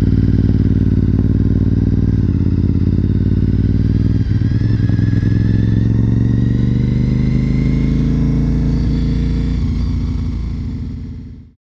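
2004 Honda RC51's 1000cc V-twin engine running as the bike rides along. About four seconds in the note changes, then its pitch climbs steadily as the bike accelerates, and the sound fades out near the end.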